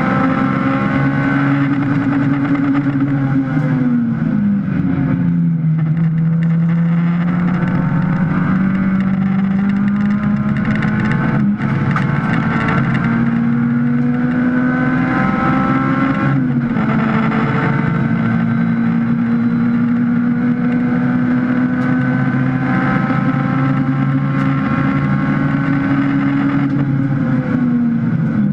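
Honda Civic race car's four-cylinder engine heard from inside the cabin, running hard under load on track. Its pitch falls about four seconds in, then climbs slowly, drops a step around sixteen seconds and falls again near the end. A short sharp click comes around eleven and a half seconds.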